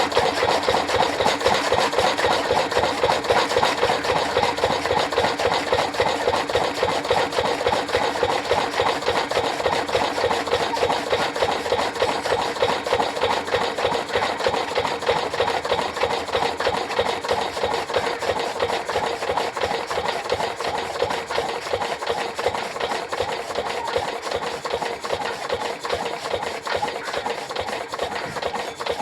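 Engine-driven chaff cutter running, a fast, even mechanical rhythm with a steady hum that fades slightly toward the end.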